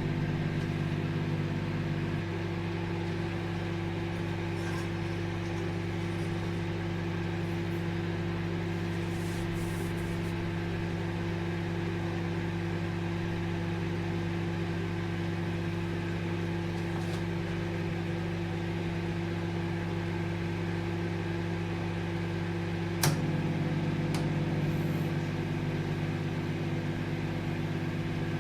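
Microwave oven running with a steady hum. About two seconds in, part of the hum drops away. About 23 seconds in there is a sharp click, and the hum grows fuller and a little louder.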